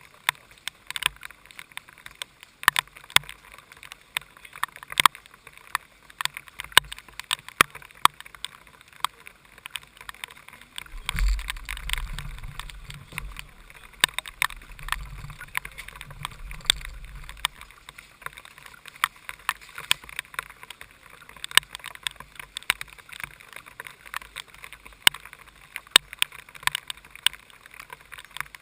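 Heavy rain tapping on a go-kart's onboard camera housing: many sharp, irregular taps over a steady hiss. A low rumble rises about eleven seconds in and fades out about six seconds later.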